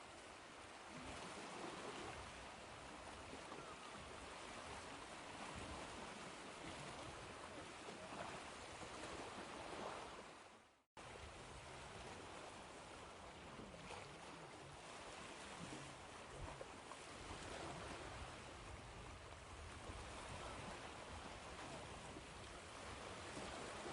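Ocean waves washing in, a steady hiss of surf that swells and eases. About eleven seconds in it fades out to a moment of silence and then comes back abruptly.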